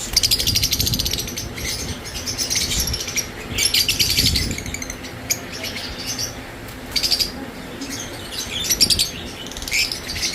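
Lovebirds chattering in a cage: bouts of rapid, shrill chirps about a second long, again and again, with bursts of wing flapping.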